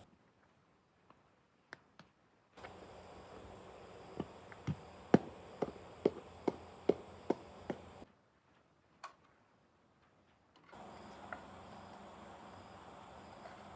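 A run of about ten sharp taps or clicks, roughly two a second, over a steady low hiss. The sound cuts out abruptly twice into dead silence.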